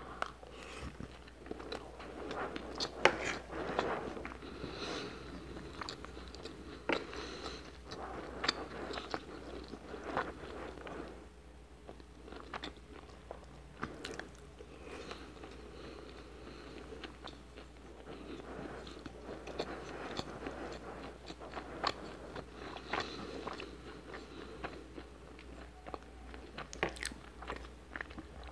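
Close-miked chewing of seasoned rice, with wet mouth sounds and many irregular sharp clicks and smacks.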